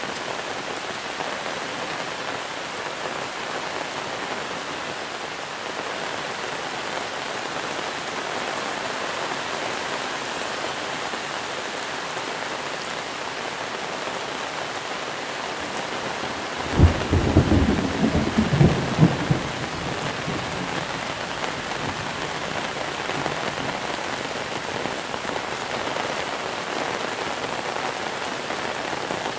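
Monsoon rain falling steadily, with a short crack and rumble of thunder a little past halfway through that lasts two or three seconds before the rain alone goes on.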